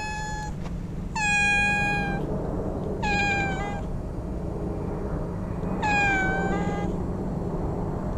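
A stray cat meowing repeatedly: one meow ends about half a second in, then three more long, level-pitched meows of about a second each follow, around one, three and six seconds in. A steady low rumble runs underneath.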